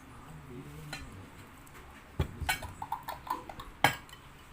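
Cutlery clinking against dishes: a few sharp clinks with brief ringing, the loudest near the end.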